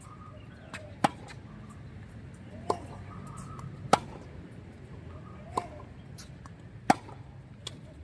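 Tennis ball being hit back and forth with rackets in a rally: a sharp pop roughly every one and a half seconds, with fainter ball bounces in between.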